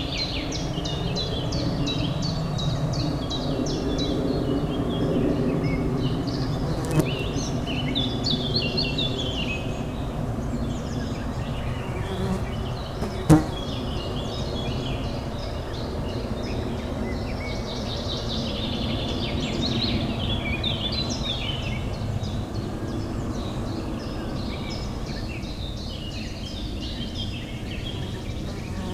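Many small birds chirping and twittering over a steady low city hum, with two brief sharp clicks, one about seven seconds in and a louder one about thirteen seconds in.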